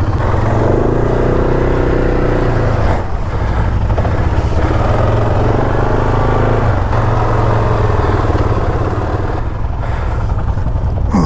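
ATV engine running under throttle, revved up twice in long pulls as the quad strains against something hard, like a tree stump, that it is hung up on.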